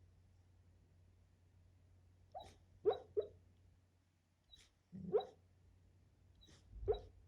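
A sleeping pit bull gives short, quiet woofs and yips in a dream. There are three quick ones a couple of seconds in, two more around the middle, and a last one near the end.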